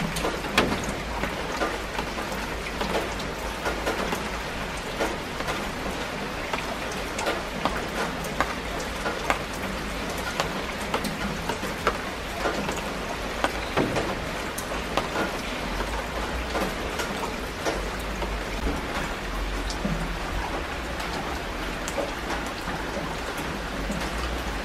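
Steady rainfall, with many separate drops striking close by as sharp little ticks over an even hiss.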